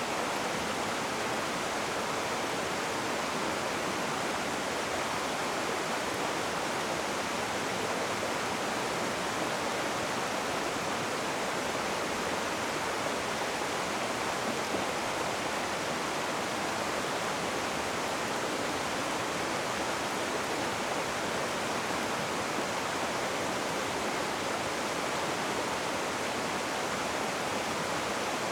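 Rushing river water: a steady, even roar with no single splashes or breaks.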